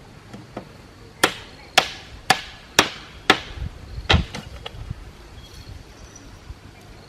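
Hammer blows, five sharp strikes about half a second apart, followed by a few lighter knocks.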